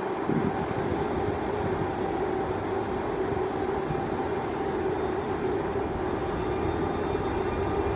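Train running, a steady noise with a low steady hum.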